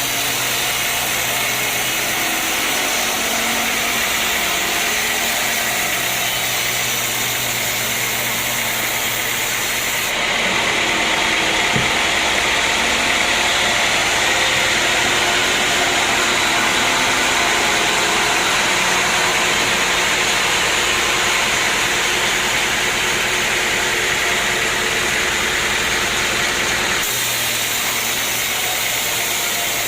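Sawmill machinery running steadily with a continuous mechanical drone. The sound changes abruptly about ten seconds in, growing a little louder with more low rumble, and changes back near the end.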